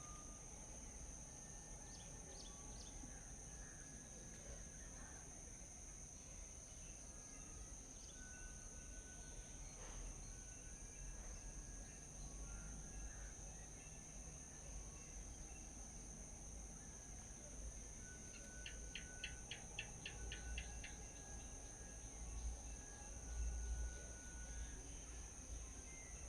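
Steady high-pitched insect drone throughout, with scattered short bird calls and a quick rattling run of about ten notes a little before the end. A low rumble swells now and then, strongest near the end.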